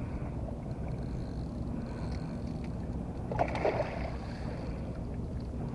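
Steady low rumble of a boat on the water, with a brief louder noise about three and a half seconds in.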